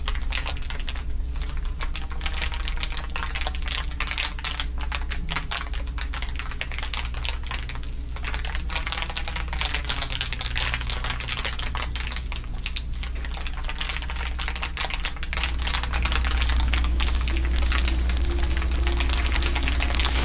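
Layered ASMR crinkling: many overlapping crinkles making a dense, continuous crackle of small clicks, with a steady low hum underneath. It grows a little louder about three-quarters of the way through.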